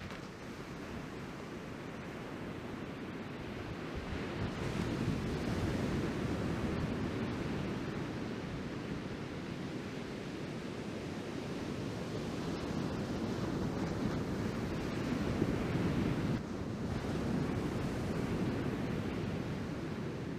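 Ocean surf from a typhoon swell breaking and washing up the beach, with wind buffeting the microphone; the wash swells and eases in slow surges.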